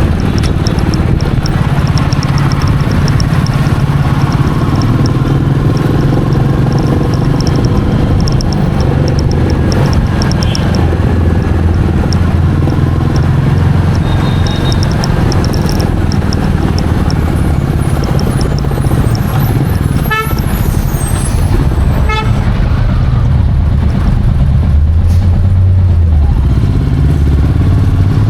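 Royal Enfield Meteor 350's single-cylinder engine running steadily on the move, under rushing wind noise. A horn toots briefly twice, about two-thirds of the way in.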